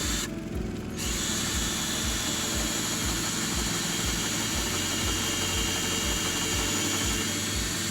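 Power drill running a countersink bit into the end of a wooden board, cutting a pilot hole and a countersink for a screw. It starts about a second in and runs steadily.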